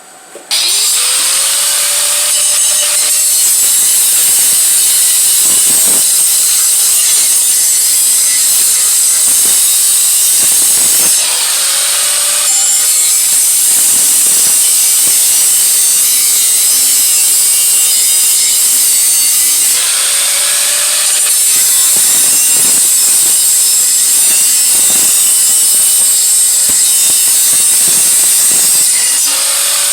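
A handheld power tool grinding the steel exhaust head pipe: a steady, loud, high-pitched grinding hiss. Its motor pitch rises again after short pauses, about three times.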